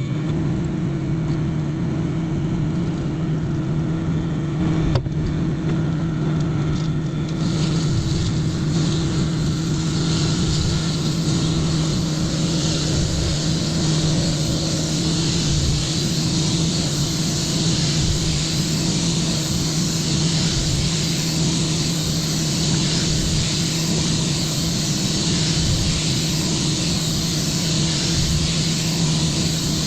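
Microwave oven running with a steady electrical hum, mustard heating inside. A single click about five seconds in, then a steady hiss builds from about seven seconds in and carries on over the hum.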